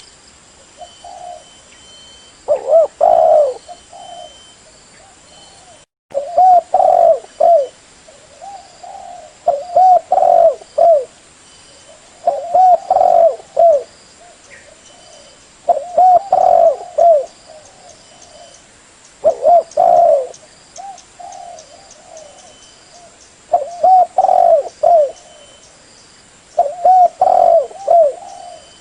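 Spotted dove (terkukur) cooing: a repeated phrase of several low coos every three to four seconds, with softer coos in between.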